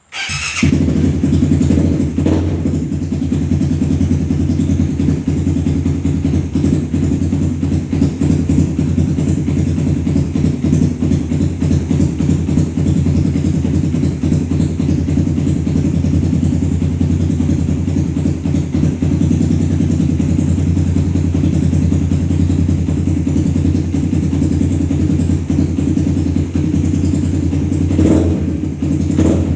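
Fuel-injected Suzuki Satria FU's 150 cc single-cylinder four-stroke engine with an aftermarket racing exhaust: it starts up and idles steadily and loud through the open pipe, with two brief throttle blips, one about two seconds in and one near the end. It runs evenly without stuttering.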